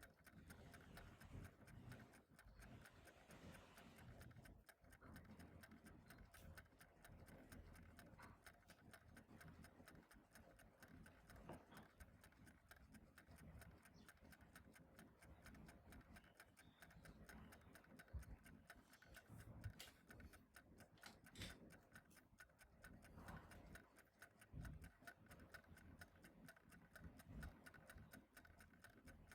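Clock ticking faintly and steadily, with a few soft knocks in between.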